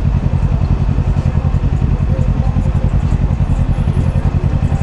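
Kawasaki Ninja 650's parallel-twin engine running steadily at low revs, with an even, rapid pulsing.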